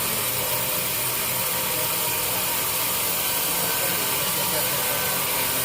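Steady noise of sawmill machinery, a saw running through teak wood at an even level.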